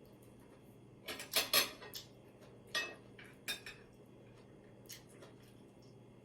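Eating utensils clinking against dishes while eating: a quick run of clinks about a second in, then a few scattered single clinks, over a faint steady hum.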